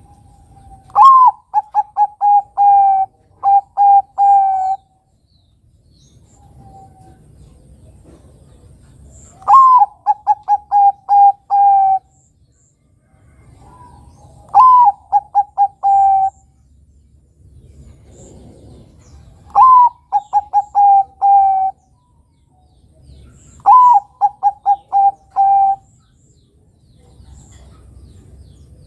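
Bangkok-type perkutut (zebra dove) cooing its song five times: each phrase opens with a longer note that rises and falls, then runs into a rapid string of short, clipped coos. The phrases come roughly every four to five seconds.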